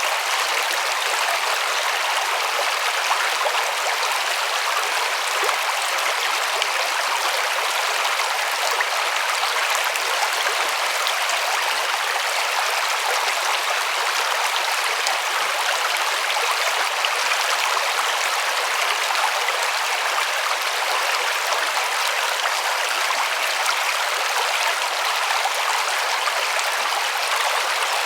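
River water rushing and splashing in a steady, even hiss, with no breaks.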